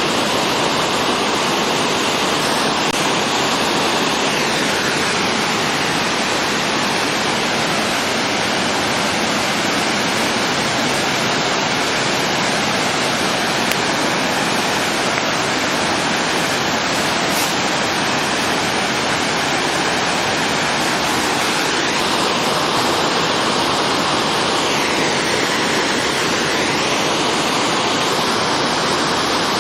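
Waterfall (Ōtodoro Falls) rushing: a steady, loud, unbroken roar of falling water.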